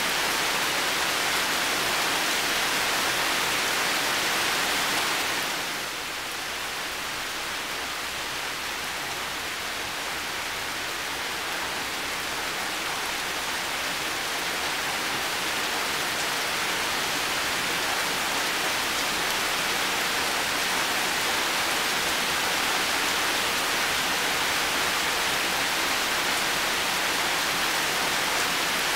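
Heavy rain falling steadily, a dense, even hiss. About five seconds in it eases slightly and loses some of its high edge, then builds back up gradually.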